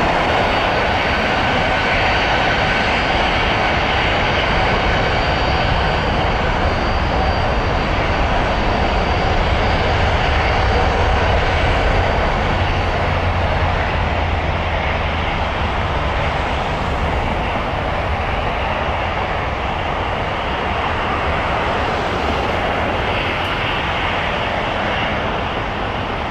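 Boeing 777 jet engines at takeoff power as the airliner departs: a steady loud roar with a faint high whine that fades in the second half, the whole noise easing slightly near the end.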